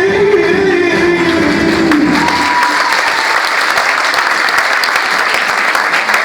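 Music with a held note ends about two and a half seconds in, and an audience applauding continues to the end.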